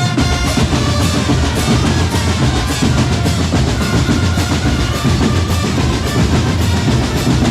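Marching drum corps playing: snare and bass drums keep up a steady, dense beat, with a few held melodic notes over it.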